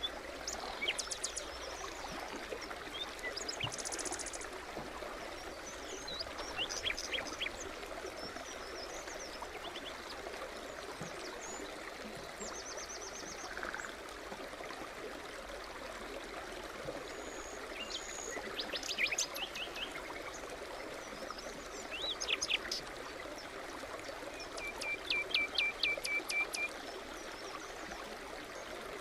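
A forest stream babbling steadily, with songbirds calling over it in short trills and chirps every few seconds.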